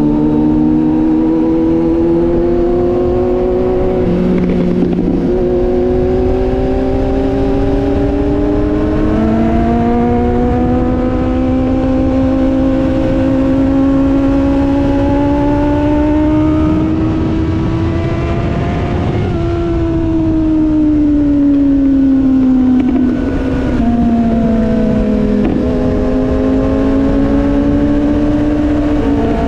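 Motorcycle engine under way, its pitch climbing slowly through the gears. It drops at shifts about four and ten seconds in and climbs to a peak around two-thirds of the way. It then falls off as the bike slows and picks up again near the end, over steady wind noise.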